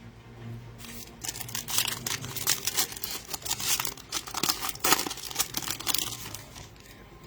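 A trading-card pack wrapper being torn open and crinkled: a dense crackling rustle that starts about a second in and dies away near the end.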